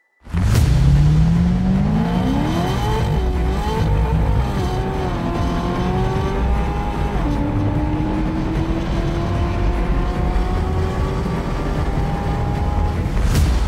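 Supercharged 6.2 L V8 of a Chevrolet Corvette C6, heard from inside the cabin, accelerating hard at full throttle. The engine note starts suddenly and climbs steeply in pitch, dropping back at each upshift and climbing again.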